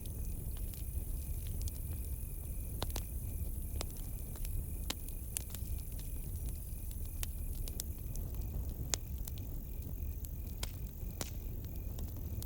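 Campfire burning with a low steady rumble and scattered sharp crackles and pops. Crickets chirp throughout in a steady, high pulsing trill.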